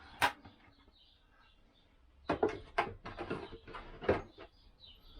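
About four sharp clicks and knocks of engine parts being handled, with faint rustling between.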